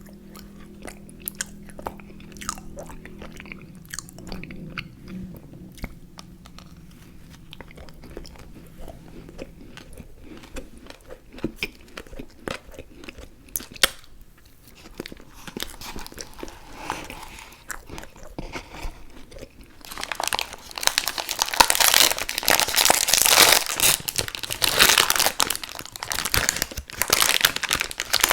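Close-miked chewing and biting of chewy fruit candy, with sticky mouth clicks. It is sparse and soft at first, then becomes much louder and denser about twenty seconds in.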